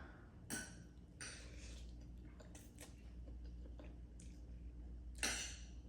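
A person chewing noodles and rice close to the microphone, with a few short wet mouth sounds; the loudest comes about five seconds in.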